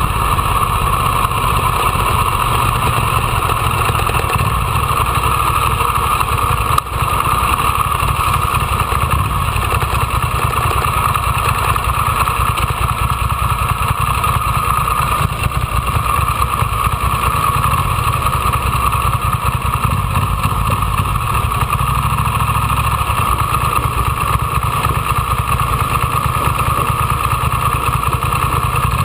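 Ducati Monster 800's air-cooled L-twin engine running on the move, mixed with steady wind noise on the camera. There is a brief knock about seven seconds in.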